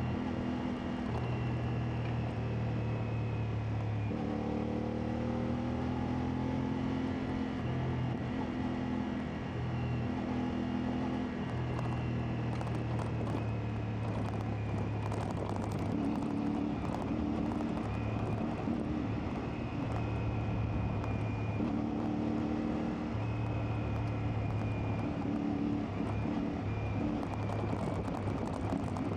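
CFMoto 450MT's parallel-twin engine running while the bike is ridden off-road, its note stepping up and down and dropping away every few seconds as the throttle is opened and closed.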